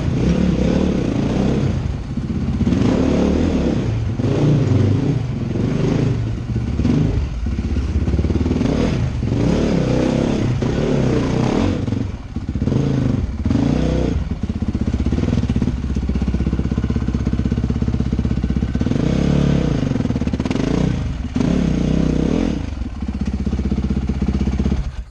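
Honda CRF450R dirt bike's single-cylinder four-stroke engine, revving up and falling back over and over as it is ridden over a rough trail; the sound cuts off abruptly at the end.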